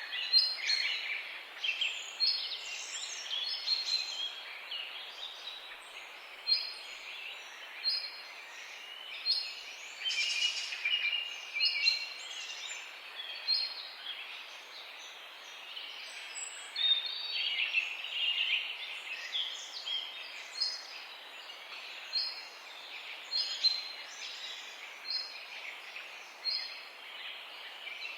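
Morning chorus of several songbirds chirping and singing, one of them repeating a short high note about every one and a half seconds among busier trills and twitters, over a faint steady hiss.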